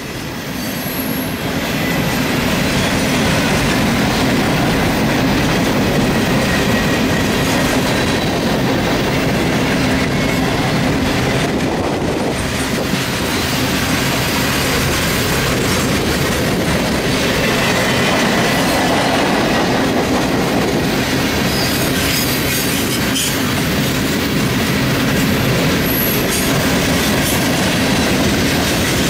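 Freight train cars rolling past close by: a steady rumble of steel wheels on rail with clickety-clack over the rail joints and thin, high wheel squeal now and then. The sound swells in the first couple of seconds and then holds level.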